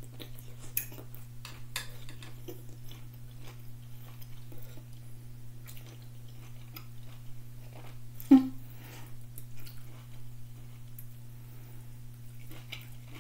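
A person chewing a mouthful of Greek farro salad with shrimp, a shrimp tail still on it: soft, irregular clicks of chewing, with one brief louder sound about eight seconds in. A steady low hum runs underneath.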